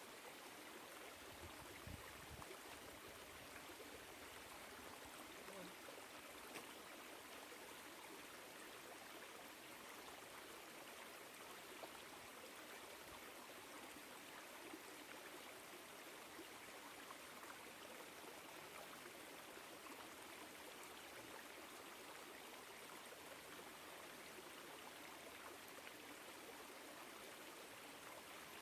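Small woodland stream running over rocks, a faint, steady rush of flowing water.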